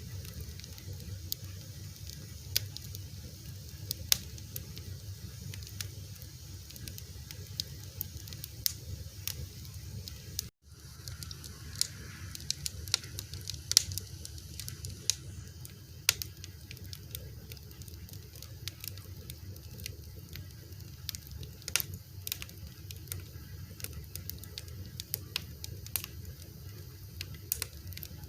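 Fire crackling: irregular sharp pops and snaps over a steady low rumble. The sound cuts out for a split second about ten seconds in.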